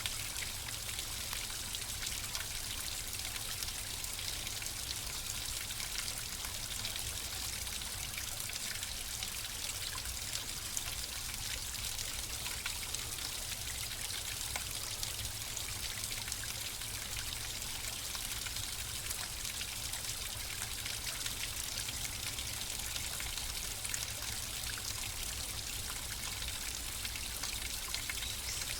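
Flowing water running steadily, a continuous trickling and splashing rush with many fine droplet ticks and no change in level.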